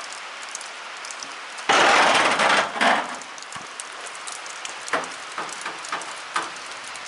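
Rain falling steadily. About two seconds in, a loud rough burst of noise lasts about a second, followed by a shorter one and a few scattered cracks.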